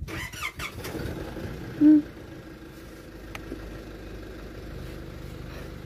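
Car engine idling steadily, heard from inside the cabin, with one short, loud beep about two seconds in.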